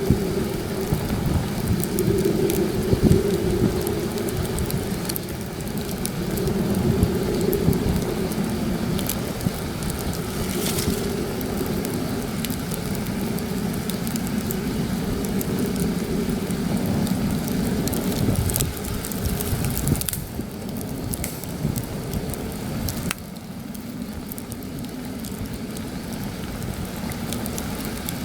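Campfire crackling and popping while heavy wind buffets the microphone with a low rumble. The wind drops noticeably about twenty seconds in, and the crackles continue.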